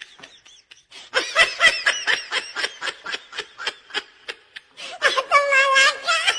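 Someone laughing in a rapid run of short bursts, about five a second, then a longer wavering, higher cry near the end.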